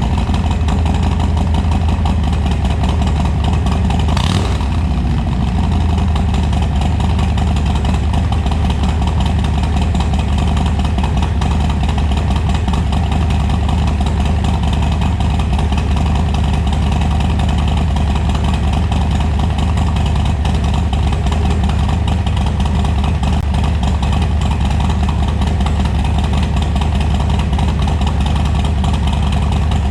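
2021 Harley-Davidson Low Rider S V-twin with a Screamin' Eagle 462 cam, idling steadily through a Bassani Road Rage 3 2-into-1 exhaust, with one short rev about four seconds in.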